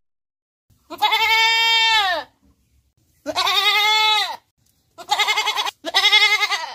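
Goat bleating four times: two long bleats of about a second each, then two shorter quavering bleats in quick succession.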